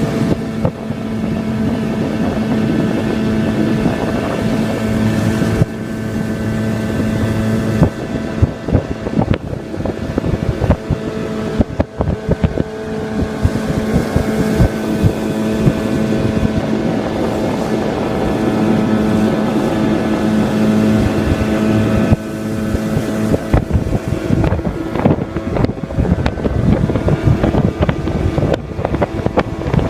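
25 hp Yamaha outboard motor running at a steady speed, holding an even pitch, with wind buffeting the microphone.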